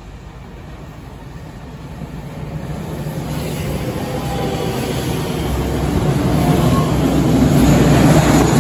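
JR West 227 series three-car electric train pulling in alongside the platform, its wheels rumbling over the rails louder and louder. An EF210 electric locomotive hauling a container freight train comes through on the next track, and the combined rumble is loudest near the end.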